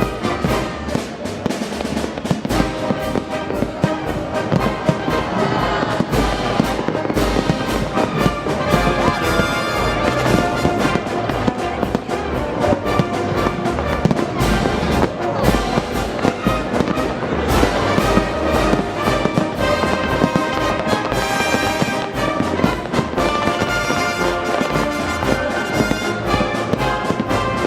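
Fireworks bursting in rapid, continuous succession over loud brass-led orchestral music.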